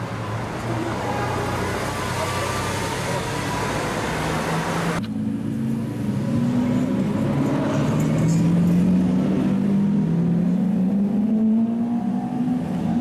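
Lamborghini Aventador's V12 engine running as the car pulls away along a street. After an abrupt cut about five seconds in, another supercar engine revs, its pitch rising and falling.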